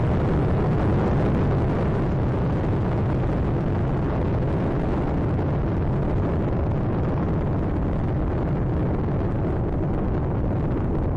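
Steady, dense low roar of the Space Shuttle Atlantis ascending on its two solid rocket boosters and three main engines, its higher frequencies slowly fading as the vehicle climbs away.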